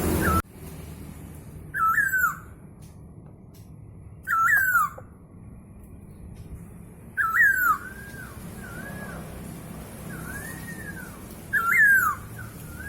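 A Hongkong poksay (Chinese hwamei) singing: four loud whistled phrases, each a falling note with a high, fast twitter over it, and softer arching whistles between the third and fourth.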